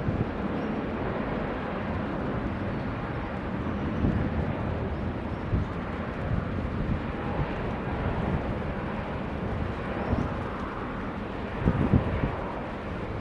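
Jet airliner engines rumbling steadily, with wind buffeting the microphone and a few louder gusts near the end.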